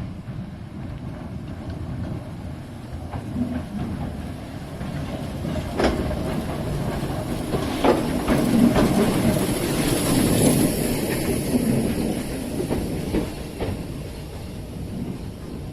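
A train passing on the heritage line, growing louder to a peak about halfway and then fading away, with its wheels clicking over the rail joints.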